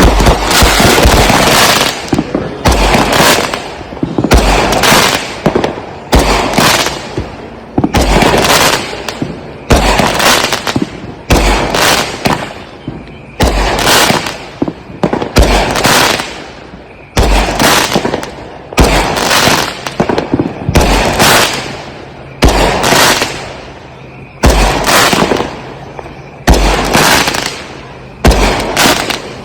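Consumer aerial fireworks firing shot after shot, about one to two loud booms a second, each trailing off before the next.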